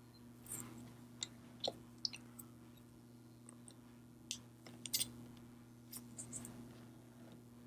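Faint, irregular small metallic clicks and light taps of watchmaker's tweezers and tools on the parts of a Seiko 6309 watch movement, over a steady low hum.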